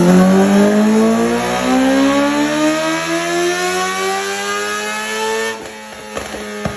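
Honda CBR1000RR's inline-four engine through an M4 Street Slayer carbon fiber slip-on exhaust, its pitch rising steadily for about five seconds as the revs climb. The revs then drop off suddenly to a lower steady note, with a few sharp clicks near the end.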